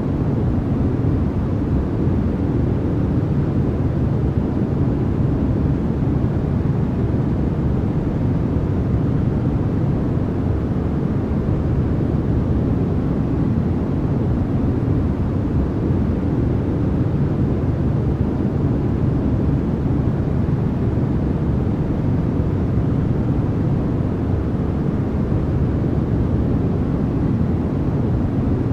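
Steady white-noise sleep track: an unbroken, even noise with no rhythm or change, deep in tone with most of its weight in the low end.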